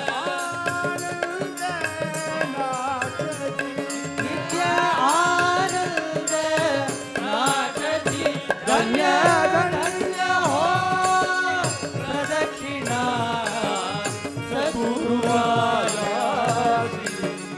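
Devotional bhajan (namasankirtanam) singing with drum and percussion accompaniment keeping a steady beat.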